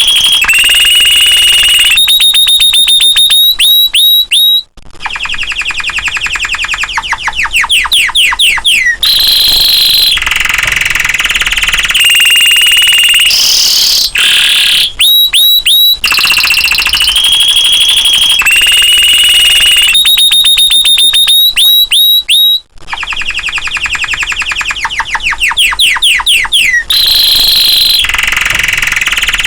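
Domestic canary singing loudly in long rolling trills, fast chopped notes and clear held whistles, with the song phrases repeating about every 18 seconds. This is vigorous 'gacor' song of the kind played to a canary that has stopped singing.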